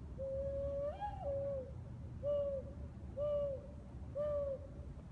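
Mourning dove singing its cooing song: one long coo that swoops up in pitch and back down, then three shorter, lower coos about a second apart.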